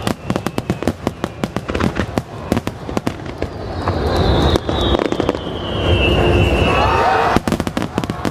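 Aerial fireworks: dense, rapid crackling bursts and bangs. About halfway through a heavy rumble builds, with a falling whistle over it, and sharp crackles come back near the end.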